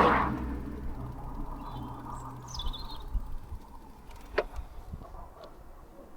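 A passing vehicle fades away over the first second, over a low steady rumble. A bird chirps a few times about two to three seconds in, and a single sharp click comes a little past four seconds.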